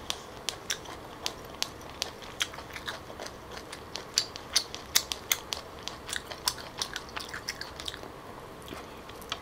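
Close-up chewing of grilled cockle meat with scallion oil: a steady run of sharp, irregular wet clicks, several a second.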